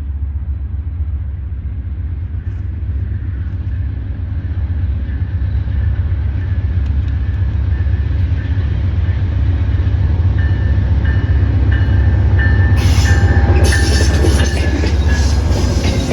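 Diesel locomotives of a train approaching, their low engine rumble growing steadily louder. About thirteen seconds in, high-pitched wheel and rail noise joins as the train draws close.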